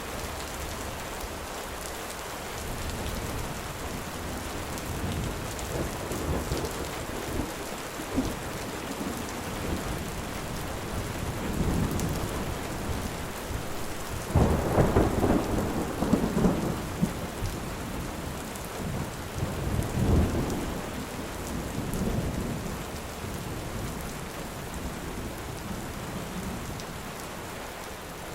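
Steady rain with rolling thunder; the thunder builds from about six seconds in, is loudest about halfway through with another swell a few seconds later, and fades toward the end.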